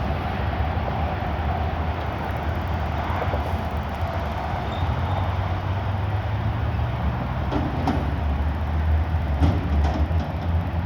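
Diesel engine of a Peterbilt 520 front-loader garbage truck running steadily, getting a little louder about halfway through, with a few light knocks near the end.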